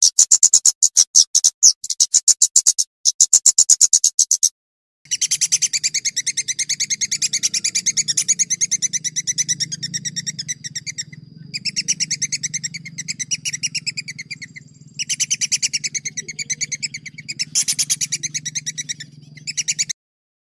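Small songbird singing fast rolling trills: rapid repeated high notes in long runs, broken by short pauses. From about five seconds in, a low hum sits under the song, and both stop abruptly near the end.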